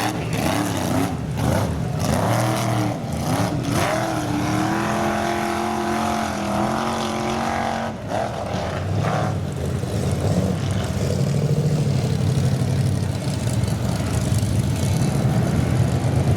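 Off-road vehicle engine revving, its pitch rising and falling. The sound dips sharply about eight seconds in, and a steadier, lower engine note follows.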